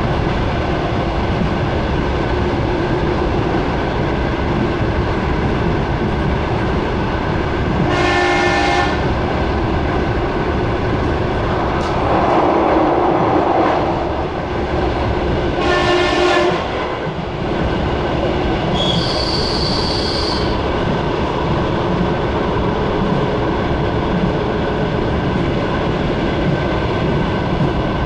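Suburban electric train running along the track, a steady rumble of wheels and carriage heard from inside the car. A horn sounds twice in short blasts, about eight seconds apart, and a brief high wheel squeal follows shortly after the second.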